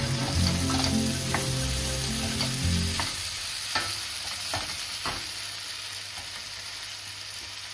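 Diced potatoes and vegetables sizzling as they fry in a non-stick pan, stirred with a wooden spatula that knocks against the pan a few times. Background music plays under it and stops about three seconds in.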